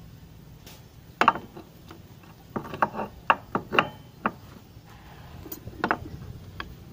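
Sharp, irregular metallic clicks and clinks of Honda PCX rear brake caliper parts being handled and set down: one about a second in, a quick uneven run of about seven a little later, and one more near the end.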